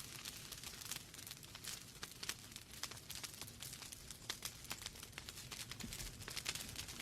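Wood fire burning in a fireplace: logs crackling and popping with many irregular sharp snaps over a low, steady rumble of the flames.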